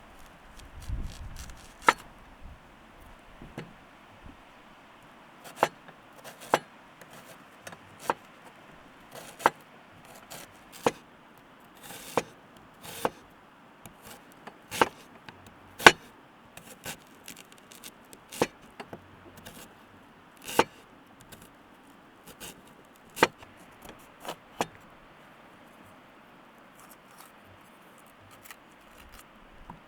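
Hand food preparation: a string of sharp, irregular clicks and knocks, roughly one a second, thinning out near the end.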